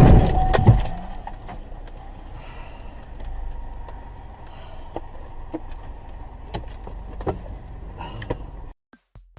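A loud noise dying away in the first second, then a low, steady vehicle rumble with a few faint clicks and knocks.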